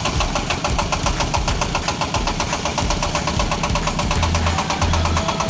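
Diesel engine of a mini self-loading concrete mixer running with a fast, even knock. Near the end a deep, evenly repeating pulse joins in.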